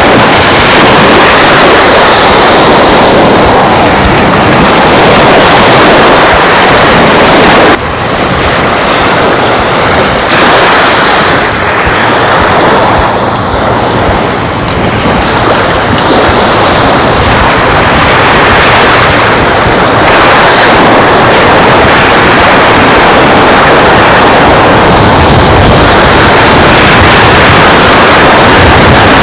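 Surf washing onto a beach, mixed with strong wind rushing over the microphone as a loud, steady noise. It drops suddenly about eight seconds in and builds back to full strength around twenty seconds.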